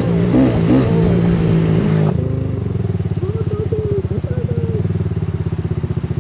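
Music, then an abrupt cut about two seconds in to a motorcycle engine idling with a rapid, even pulse.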